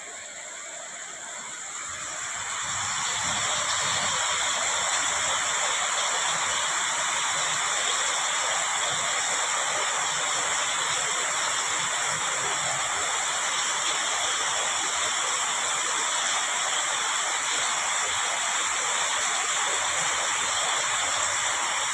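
Heavy rain pouring down as a steady hiss, growing louder over the first few seconds and then holding even.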